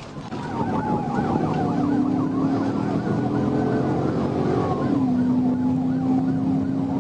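Police car sirens during a pursuit: one on a fast up-and-down yelp, with a slower falling wail underneath. A steady low drone runs beneath them and drops slightly in pitch about five seconds in.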